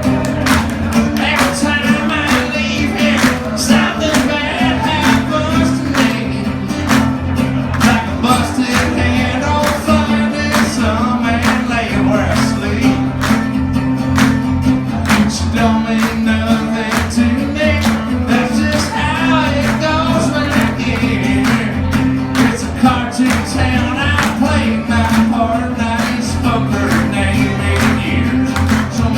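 Live performance of a country-rock song: male vocals over strummed guitar, with a steady beat of sharp hits running through it.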